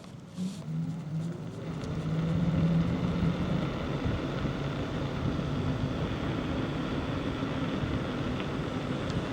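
A motor vehicle's engine speeding up, its pitch rising and getting louder over the first couple of seconds, then running steadily.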